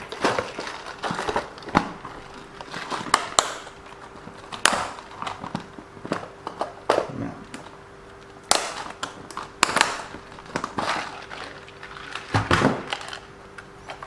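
Hands rummaging through small hardware and packaging: irregular clicks, knocks and rustles of small parts being handled, over a faint steady hum.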